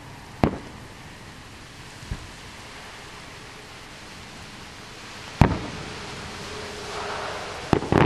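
Fireworks going off: a sharp bang about half a second in, a duller low thump around two seconds, a loud bang just past five seconds, and two or three quick bangs with a short crackle near the end, over a steady hiss.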